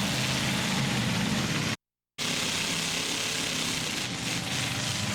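Demolition derby trucks' and SUVs' engines running, with a broad roar of arena noise; the sound drops out completely for about half a second roughly two seconds in.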